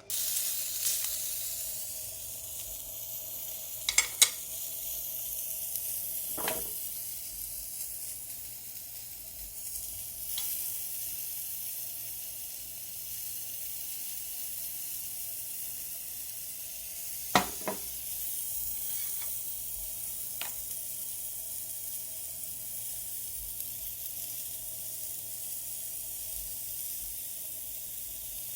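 Food sizzling steadily on a small thick iron griddle, with a few sharp clicks: a pair about four seconds in, one a couple of seconds later, and another pair past the middle.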